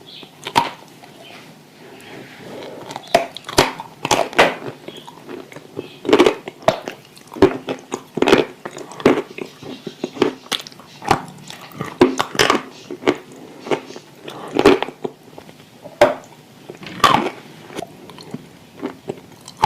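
A person biting and chewing dry edible clay close to the microphone: a long run of sharp, irregular crunches with softer chewing between them.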